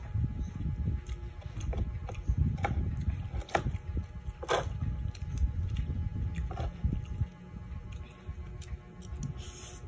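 Close-miked chewing, with a few sharp clicks of cutlery against a glass bowl; quieter for the last few seconds.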